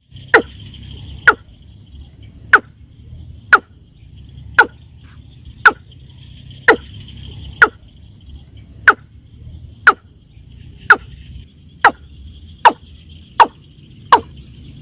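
A bird repeating a short, loud call about once a second, the calls coming faster near the end, over a steady high insect buzz.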